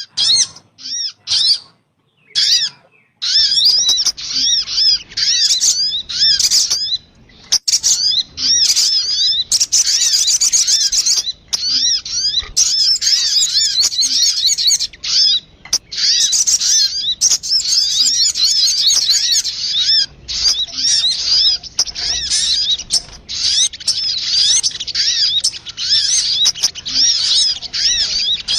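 Sogun bird lure call: repeated high, arched chirping notes, a few separate ones at first, then from about three seconds in a dense, continuous chatter.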